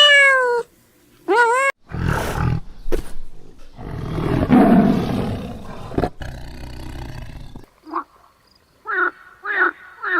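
A domestic cat meowing twice, then a large wild animal giving one long, rough roar that lasts several seconds. Near the end a series of short, quick calls begins.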